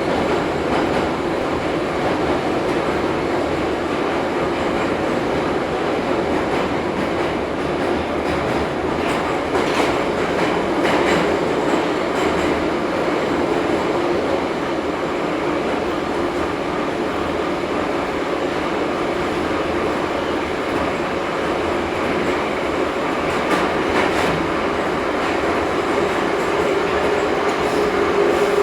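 Ezh3 (81-710) metro train running between stations, heard from inside the car: a steady rumble of wheels on rail, with a few clicks over rail joints in the middle and again later. A steady hum comes in near the end.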